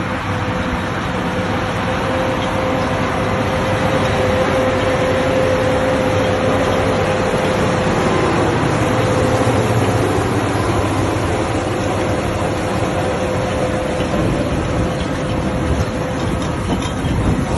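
Massey Ferguson 7726 tractor running steadily while it drives a straw coverer spreading straw over carrot beds, with a steady whine over the engine noise that fades near the end.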